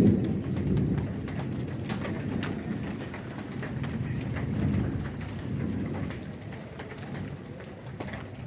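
Heavy rain falling, with scattered drops striking nearby surfaces, under a low rolling rumble of thunder that is loudest at the start and slowly fades away.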